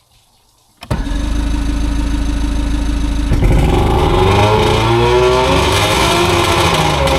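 A Johnson 140 HP two-stroke outboard motor starts abruptly less than a second in and runs steadily. About three seconds later, music with wavering pitched lines comes in over the engine.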